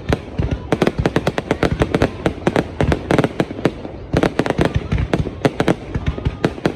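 New Year's Eve aerial fireworks going off in a dense, continuous barrage: rapid bangs, many a second, without a pause.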